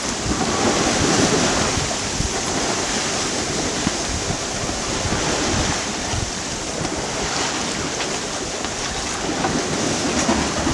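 Wind buffeting the microphone over water rushing and slapping along a sailboat's hull as it beats close-hauled into a choppy sea in about 18 to 20 knots of wind.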